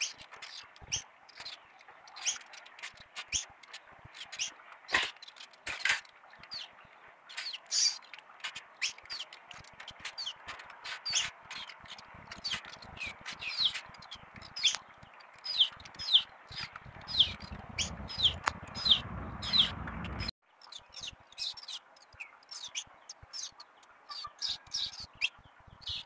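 Small birds chirping: a dense, continuous stream of short, high, falling chirps, several a second. A few sharp knocks come in the first six seconds, and a low rumble rises for a few seconds before the sound breaks off suddenly about twenty seconds in.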